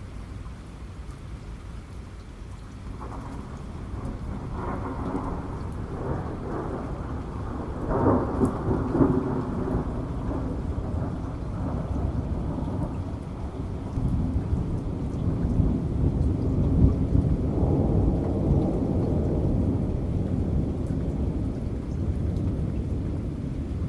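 Steady heavy rain with rolling thunder. A low rumble builds a few seconds in and peaks with a crackling roll about eight seconds in, then a second long roll swells through the second half.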